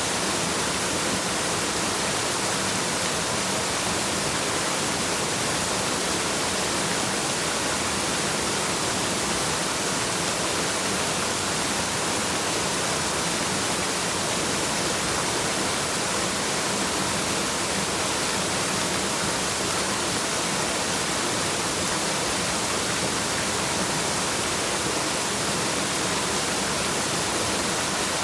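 Waterfall pouring steadily: an even rushing hiss with no change in level.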